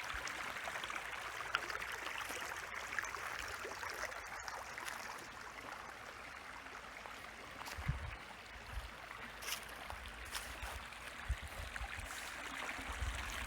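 Small shallow stream trickling and gurgling steadily, with a few soft low bumps in the second half.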